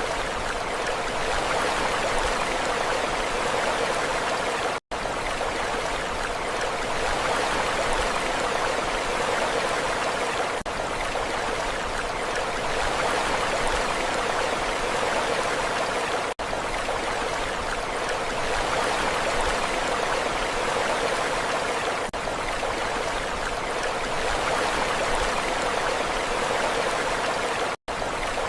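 Steady rushing water, an even unbroken wash with no rise and fall of waves. It cuts out for an instant twice, about five seconds in and near the end.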